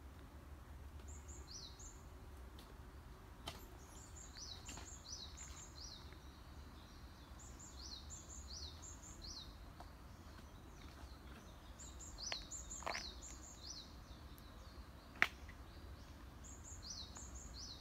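A songbird singing, repeating short phrases of three or four quick high, falling notes every few seconds, over a low steady rumble. A sharp click comes about fifteen seconds in.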